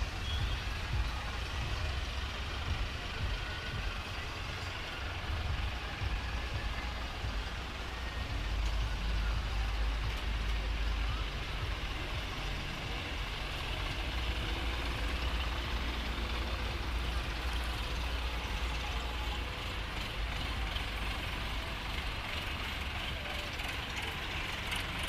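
Tractor engines running steadily in a procession, a continuous low rumble with a hiss of road and traffic noise over it.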